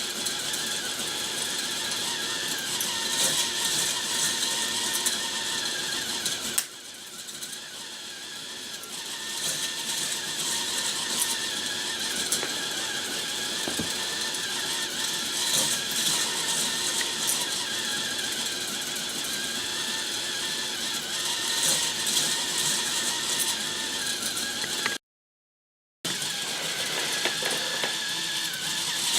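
K'nex Blizzard Blast roller coaster model running: its motor drives the plastic chain lift with a steady clattering, ratchet-like sound. The sound changes abruptly about six and a half seconds in and drops out for about a second near the end.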